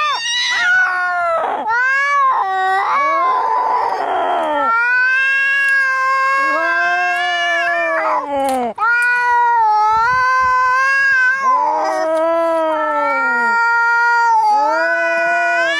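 Angry cats yowling in a fight: a run of long, drawn-out caterwauls that rise and fall in pitch, one after another with hardly a break, and a hiss about three to four seconds in.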